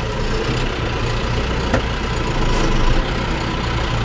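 Tractor engine idling steadily as the PTO is switched on to drive the mower blades, swelling slightly about three seconds in.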